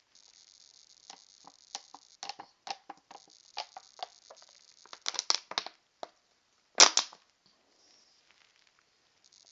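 A run of irregular clicks and knocks, handling noise from fingers tapping and gripping a phone, with one louder knock about seven seconds in. A faint high hiss runs under the clicks and stops about five seconds in.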